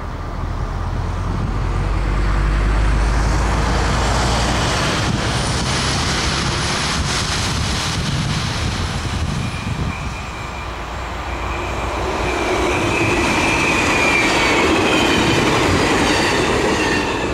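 NS VIRM double-deck electric train approaching and running past on the track. A high wavering whine rises over the rail noise in the last several seconds as it passes close. Wind buffets the microphone in the first few seconds.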